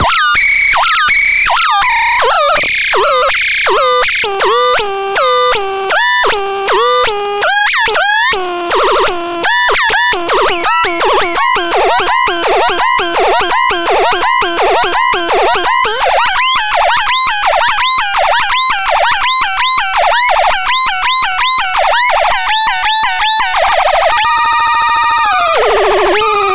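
Experimental synthesizer patch playing a fast rhythmic pattern of short pitched notes that swoop in pitch, the notes coming quicker partway through. Near the end it changes to a held, buzzy chord that slides down in pitch.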